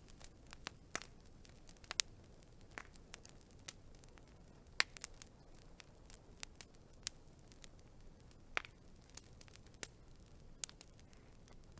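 Wood fire crackling: irregular sharp pops and snaps over a soft hiss, with the loudest pop about five seconds in.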